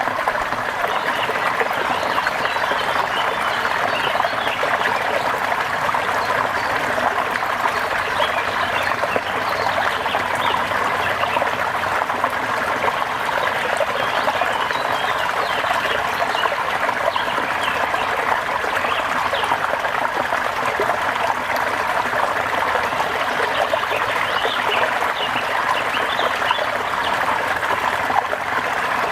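Rain falling with trickling, running water: an even, steady wash of sound.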